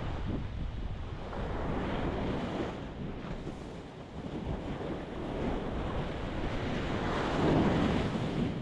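Ocean waves breaking against a rocky shore, the surf swelling and easing, with the loudest wave crashing about three-quarters of the way through. Wind buffets the microphone.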